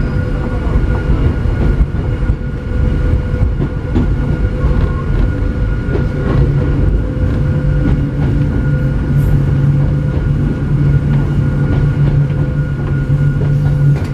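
Hakone Tozan Railway Moha 1-type electric railcar running through a tunnel, heard from inside the cab: a steady, loud low rumble of wheels and running gear with a steady hum, the rumble growing heavier in the second half.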